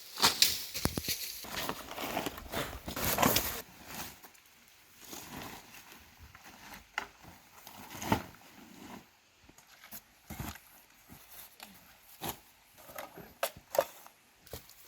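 Irregular knocks and clicks with rustling, busy for the first four seconds and then sparser, scattered taps.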